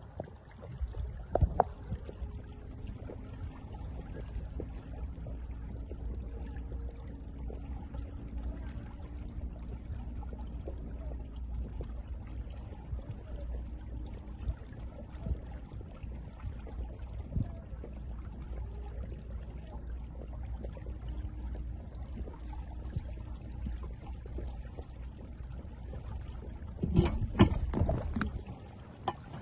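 Small boat moving on the water: a steady low rumble with water sounds, with faint humming tones in the first half and a cluster of louder knocks and splashes near the end.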